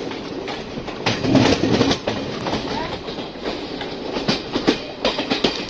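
Passenger train running, heard from the side of a coach: a steady rumble of wheels on rail with irregular clacks as the wheels cross rail joints and points, louder for a stretch about a second in.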